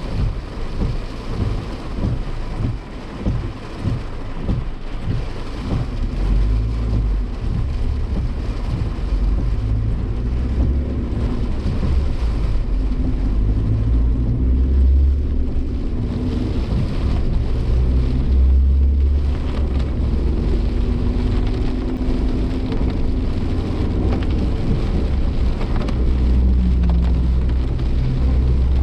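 Heavy typhoon rain and gusting wind beating on a Suzuki Jimny Sierra as it drives, with a deep rumble of wind buffeting. The engine and road noise run underneath, the engine note rising and falling.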